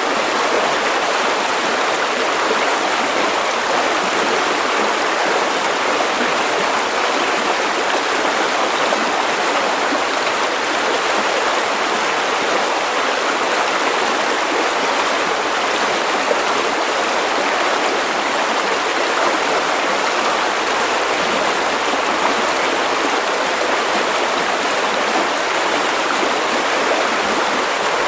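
A river stream rushing and burbling over stones, a steady, unbroken flow of water.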